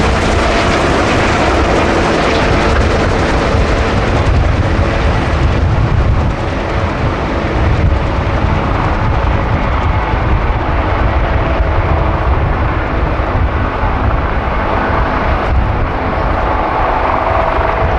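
Several helicopters with turbine engines running on the ground: a steady turbine whine over the low beat of the rotors.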